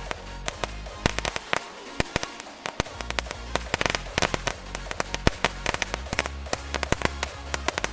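Knetterlint, a Category 1 strip of tiny firecrackers, going off in a rapid, irregular run of sharp pops and crackles, with background music underneath.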